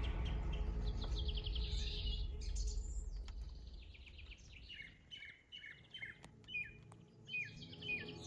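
Small songbirds chirping, with a series of short, repeated high calls in the second half. Under them a low steady hum fades away over the first few seconds, and there are a few faint sharp clicks.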